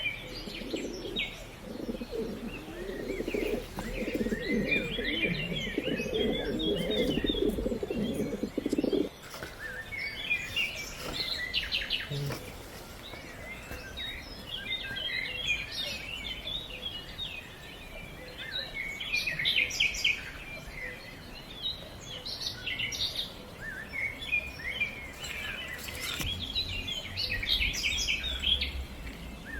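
Small birds chirping and twittering throughout, with pigeons cooing in a dense low chorus for roughly the first nine seconds, which stops abruptly.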